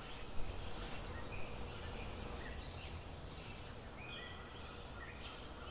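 Faint birds chirping in short, scattered calls over a low steady background hum, with a soft knock about half a second in.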